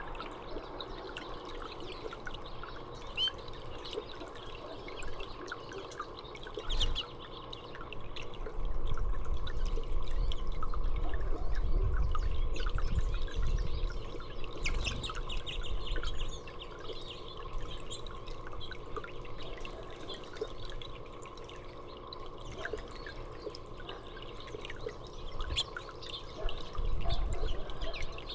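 Small songbirds chirping in short, scattered calls over steady trickling water. A low rumble rises for several seconds about a third of the way through.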